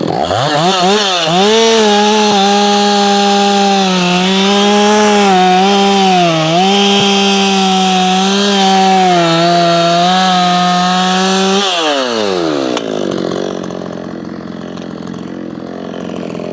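Ported Efco 165 two-stroke chainsaw revved up to full throttle, held at a high, steady scream for about eleven seconds with a few brief dips in pitch, then let off so it falls back to idle.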